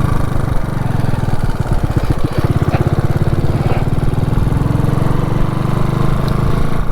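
Motorcycle engine running under way, heard from the rider's position, its note shifting a little in pitch with the firing pulses plainly heard about two seconds in.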